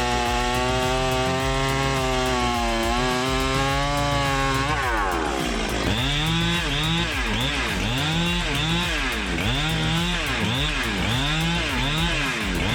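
Large two-stroke chainsaw running at high revs. From about five seconds in, its engine pitch dips and recovers over and over, about once a second.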